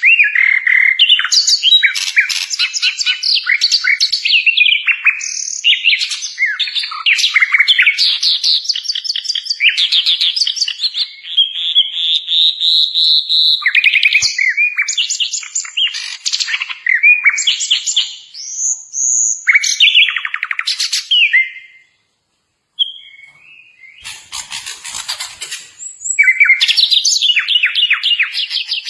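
Sikatan londo flycatcher singing a fast, varied song of rapid chattering trills and sweeping whistles. It breaks off briefly a little after 20 seconds, continues more quietly for a few seconds, then comes back in full.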